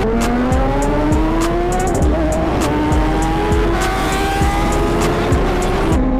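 Sport motorcycle engine at high revs, accelerating, its pitch climbing slowly, stepping about two seconds in and dropping near the end as it changes gear. Music with a steady thudding beat plays underneath.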